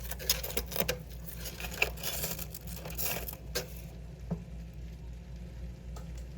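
Light clicks, taps and clinks of small items and fridge parts being handled and moved while clearing out a mini fridge, with a brief rustling hiss about two to three seconds in. The handling dies down after about four seconds, leaving one more soft knock.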